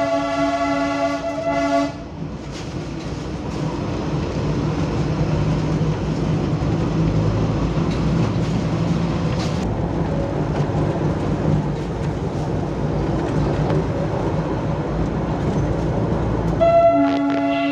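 Diesel locomotive running with a steady hum and rumble, its horn sounding at the start and again near the end, each blast a steady multi-tone chord lasting about two seconds.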